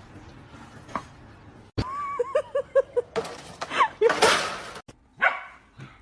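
A dog barking and yipping in a quick run of short calls, starting about two seconds in, with a last call near the end.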